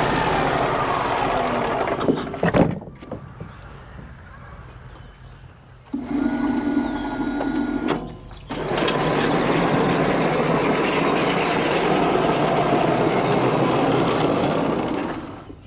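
Wood-Mizer LT35HD portable band sawmill running and its blade cutting through ash, loud, broken by a sharp knock, a quieter pause and a short steady hum before cutting resumes and then drops off near the end.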